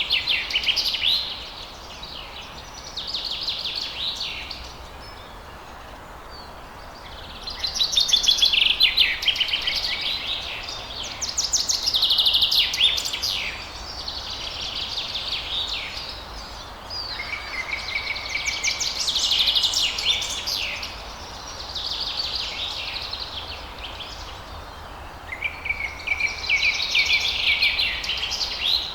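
Songbirds singing at dawn: a run of separate phrases of fast trills and chirps, each one to three seconds long and coming every few seconds, over a steady background hiss.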